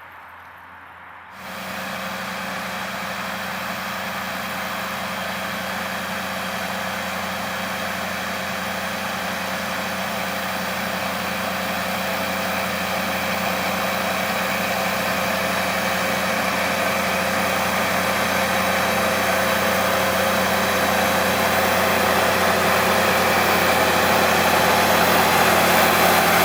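Farm tractor engine running steadily under working load, growing gradually louder as it draws nearer. The sound begins suddenly about a second and a half in, after a quiet outdoor start.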